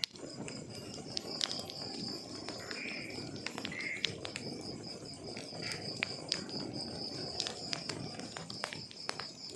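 Wood fire burning in a fireplace: a low steady rush of flames with scattered sharp crackles and pops from the logs. A steady high-pitched pulsing trill runs underneath.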